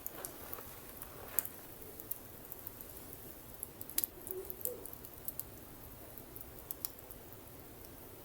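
Campfire burning, wood crackling with irregular sharp pops over a low steady hiss.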